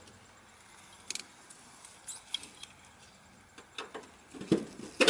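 Scattered light metallic clicks and knocks of parts and tools being handled, a few strokes spread over the seconds, the loudest near the end.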